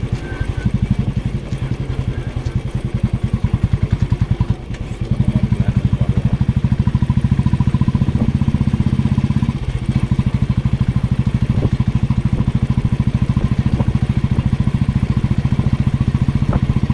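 Motorcycle engine running under way with an even, rapid pulsing. It dips briefly about four and a half seconds in, then comes back louder and steadier.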